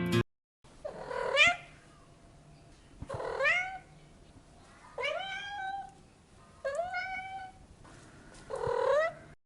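Domestic cat meowing five times in a row, each call rising in pitch, spaced about one and a half to two seconds apart.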